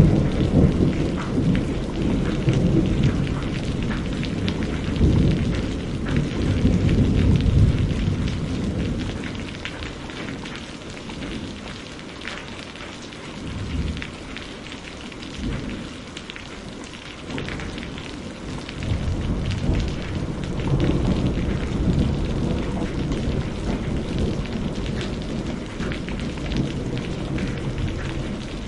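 Steady rain falling, with thunder rolling low beneath it. The rumble is heavy at first, dies down about a third of the way in, and builds again after about two-thirds.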